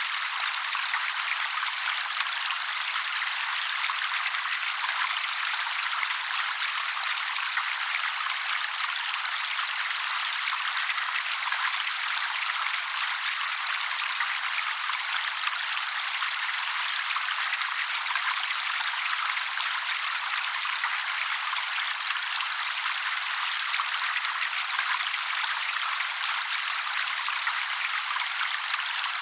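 Steady trickling water, an even thin hiss without any deep tones and no breaks.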